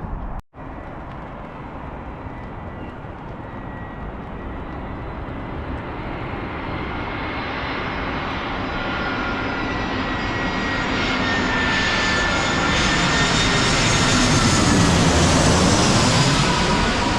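Airliner on approach to land passing low overhead: a steady engine rumble with a high whine over it grows louder throughout, peaking a couple of seconds before the end as the pitch shifts while it passes.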